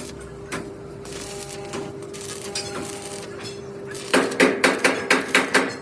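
Hammer striking sheet metal: a quick run of about eight ringing blows near the end, over a steady hum and a few light knocks earlier on.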